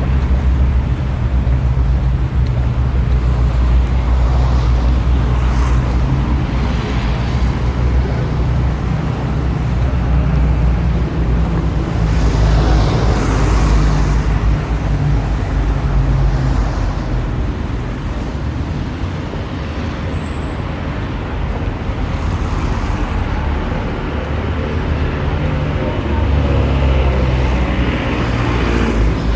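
Road traffic: a steady low rumble of vehicles with passing cars swelling and fading several times.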